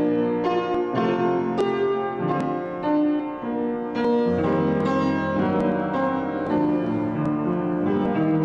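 Instrumental keyboard music: chords with a moving melody line, the notes held and changing every second or so.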